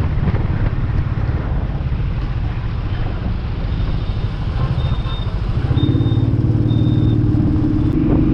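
Royal Enfield 350 single-cylinder motorcycle engine running at road speed, its low exhaust pulsing heard from the rider's helmet camera. About six seconds in, a steadier droning hum joins it.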